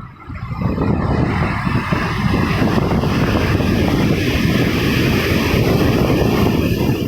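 Ocean surf: a steady rushing of waves breaking and washing on the shore, swelling over about the first second and then holding.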